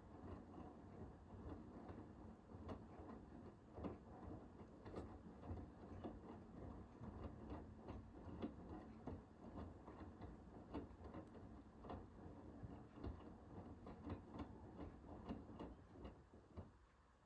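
Hoover H-WASH 500 front-loading washing machine in the wash phase: the drum turns with a low motor rumble while the wet laundry tumbles, giving irregular soft knocks and clicks. The drum stops near the end, as it does between turns.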